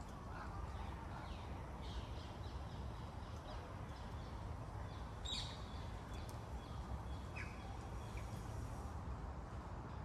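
A few short bird calls, the clearest about five seconds in, over a steady low rumble, with faint clicks of a spoon stirring soup in a metal camping pot.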